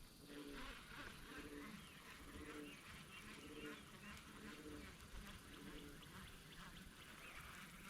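Faint waterfowl calling across the pond: a steady series of short pitched calls.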